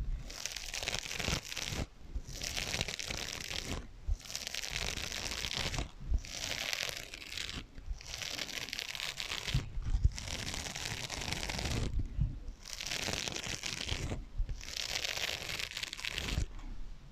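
Fingernails scratching on kitchen sponges in about eight rough strokes, each lasting one and a half to two seconds with short pauses between. The scratching is played through an added echo effect.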